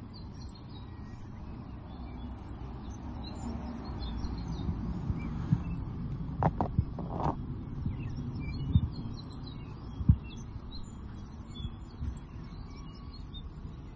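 Birds chirping in the background over a low steady outdoor hum, with a few short knocks and clicks between about six and ten seconds in.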